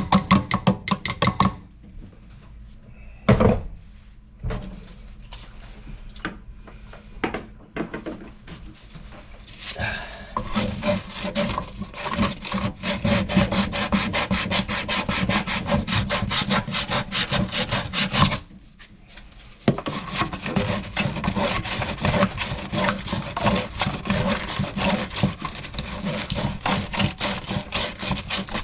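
Rapid back-and-forth scraping or rasping strokes of a hand tool worked against the fixture, in two long runs with a short break just past the middle, after a few scattered knocks.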